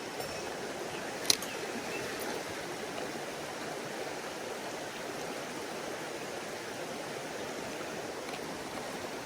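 Mountain stream rushing steadily over rocks, with one sharp click a little over a second in.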